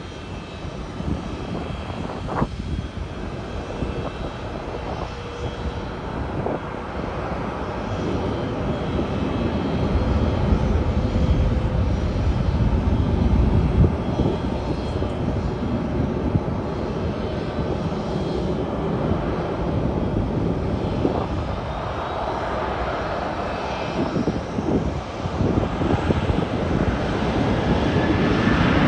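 Jet airliner engines, a heavy rumble that swells to a peak about halfway through, eases, then builds again near the end.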